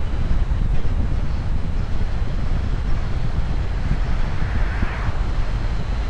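Wind buffeting the microphone: a dense, gusting low rumble under a steady hiss, with a brief swell of hiss about four and a half seconds in.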